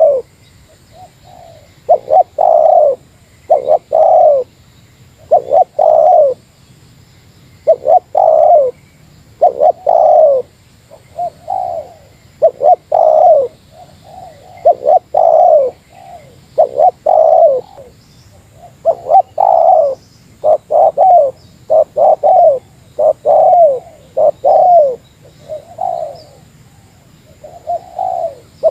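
Spotted dove (tekukur) cooing over and over, loud and close, in short phrases of notes that each fall in pitch, the phrases coming every second or two with brief pauses between.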